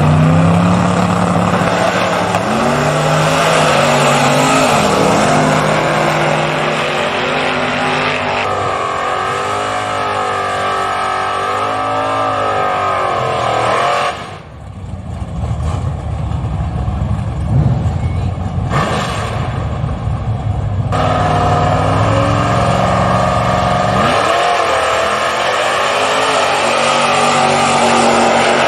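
Drag-racing engines running and revving at the line, with engine notes that rise and fall. The level dips sharply about fourteen seconds in, then the engines come back.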